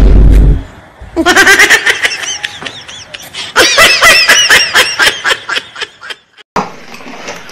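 A loud, deep boom right at the start, then two runs of high-pitched laughter in quick rapid pulses, the second run about three and a half seconds in.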